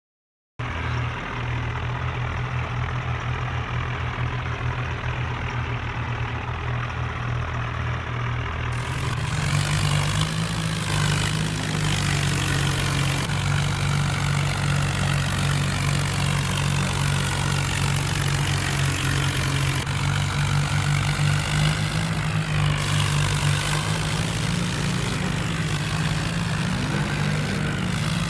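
Tractor engine running steadily, its note stepping up to a higher pitch about nine seconds in and staying there.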